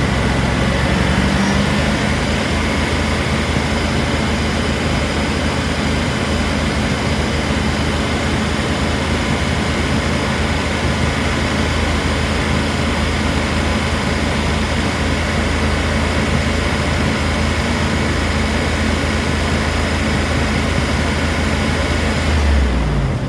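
Range Rover P38 engine running steadily, its note rising slightly about a second in and falling near the end. The owner says this engine has a valve or lifter that sticks from time to time.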